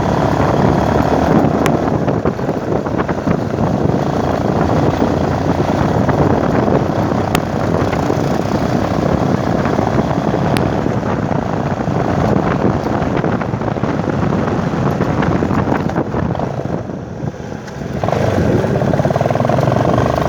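Motorcycle being ridden along a road: a steady, loud mix of engine and rushing noise, dropping off briefly about three-quarters of the way through before picking up again.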